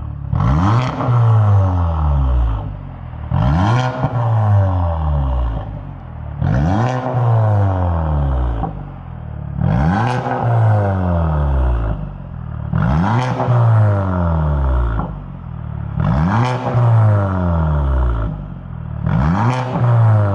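Audi A6 C8 45 TFSI's exhaust, through a valved aftermarket full exhaust system, as the engine is revved repeatedly. Each rev climbs quickly in pitch and then falls back slowly, about every three seconds.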